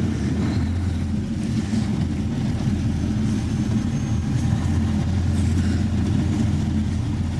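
Sander truck's engine running steadily while driving slowly, heard from inside the cab: a steady low drone.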